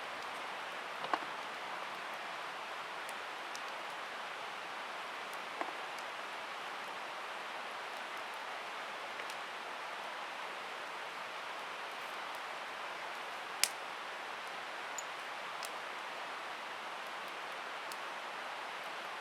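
Steady, even rushing noise with a few sharp clicks, the loudest about two-thirds of the way through.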